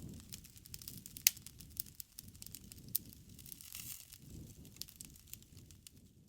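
Campfire crackling: burning wood snapping and popping in sharp, irregular cracks over a low rumble of flames, with a louder pop about a second in and another near three seconds.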